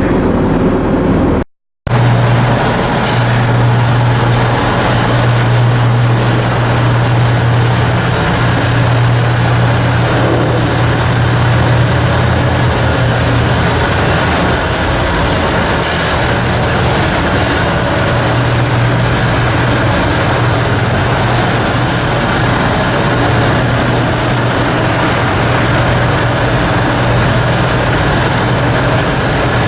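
Heavy machinery running steadily with a constant low hum under a broad, even roar. It breaks off for a moment about a second and a half in, then carries on unchanged.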